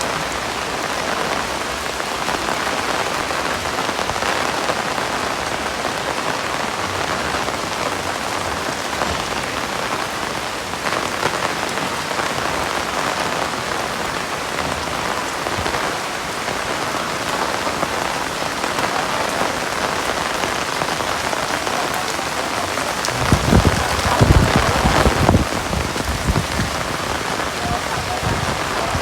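Heavy rain falling steadily in a continuous hiss of drops. About three-quarters of the way through, a low rumble swells for a few seconds and is the loudest part.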